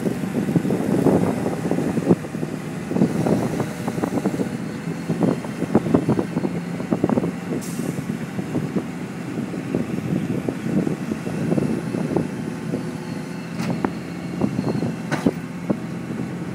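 Skip loader truck's engine running steadily while its hydraulic arms hoist a loaded skip bin on chains, with irregular knocks and clanks throughout.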